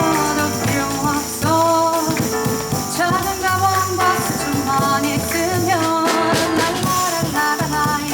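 Live jazz combo playing: double bass walking through low notes under drums with cymbals and piano, with a melody line that slides and wavers between notes.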